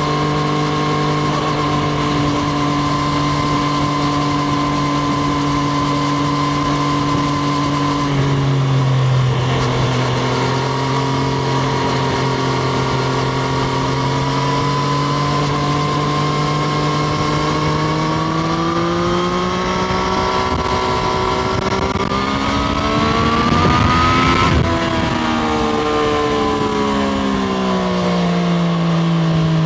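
Triumph Street Triple RS's 765 cc inline three-cylinder engine heard onboard, running at a steady speed at first. The revs drop about eight seconds in, then build steadily for the next fifteen seconds or so, drop sharply at the peak, and ease back down.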